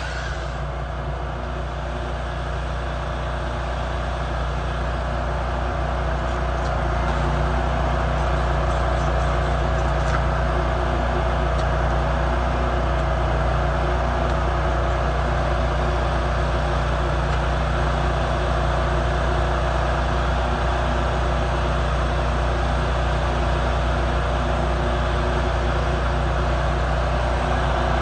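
Stick-welding arc crackling steadily over the low hum of the welding machine, growing a little louder over the first several seconds and then holding even.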